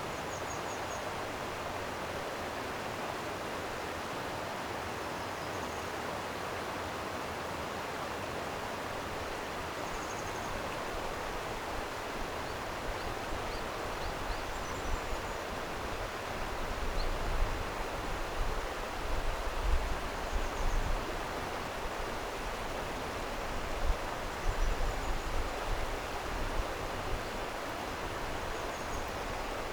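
Steady rushing of a flowing stream, with faint short bird chirps now and then. Brief low rumbles come in over the second half.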